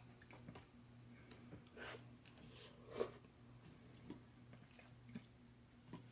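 A person eating quietly: faint chewing with scattered small clicks and one sharper knock about three seconds in, over a low steady hum.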